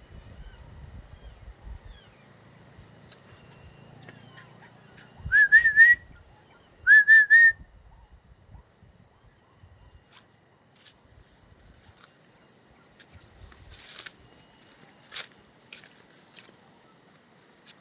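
A bulbul calling twice in quick succession: two short, loud, bubbly phrases of three quick rising notes each, about a second apart.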